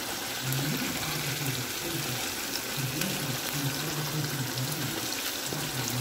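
Chicken pieces frying in hot oil in an enamelled cast-iron pan: a steady, dense sizzle, with a few faint clicks as tongs move the pieces.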